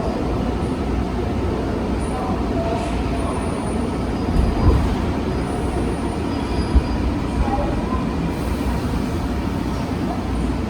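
Seoul Metro 3000-series GEC chopper subway train running, a steady rumble of wheels on rail. There are a couple of sharp knocks, about four and a half and seven seconds in, and a faint wheel squeal in the middle.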